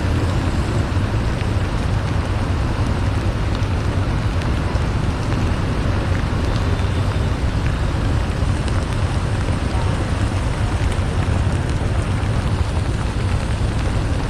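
Motorcycle riding in the rain: the engine runs steadily under a constant rush of wind, rain and wet-road spray.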